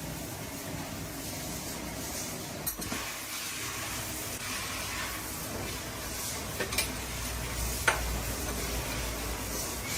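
Steady hiss with three sharp metal clinks of tools and parts being handled, the loudest near the end.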